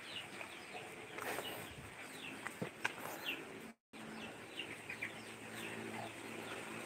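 Birds chirping: many short, falling high chirps repeating over faint background hiss, with a few faint clicks. The sound cuts out completely for a moment a little past halfway.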